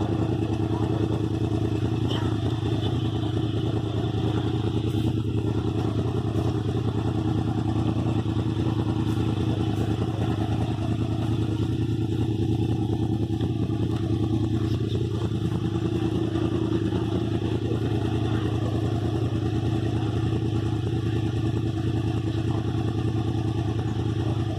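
Motorcycle engine running steadily at constant revs throughout.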